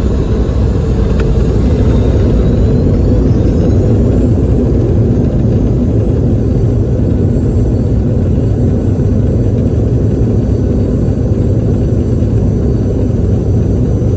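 Cabin noise of a Boeing 717 taxiing: a steady low rumble from its rear-mounted Rolls-Royce BR715 turbofans, with a whine that rises in pitch a few seconds in as the engines spool up, then holds steady.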